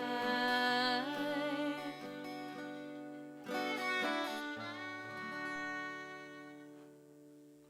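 Acoustic guitar and fiddle playing the closing bars of a folk song, with a last strummed chord about three and a half seconds in, its notes ringing out and fading away.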